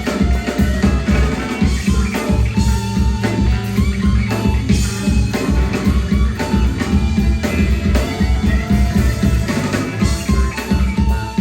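Live rock band playing: drum kit with a steady driving beat, bass and electric guitars.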